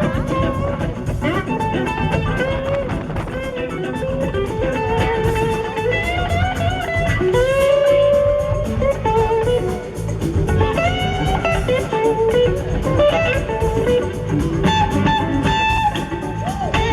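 Live band playing soul-rock, with an electric guitar leading in bending, gliding notes over bass and drums.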